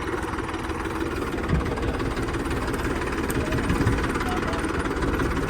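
A vehicle engine idling steadily, a low rumble with uneven knocking pulses.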